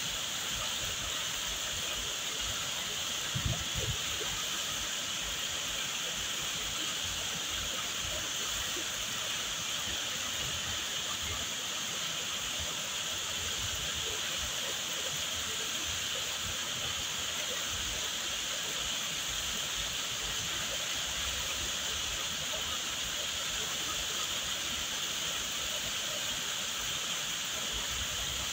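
Waterfall water pouring and splashing in a steady, unbroken rush.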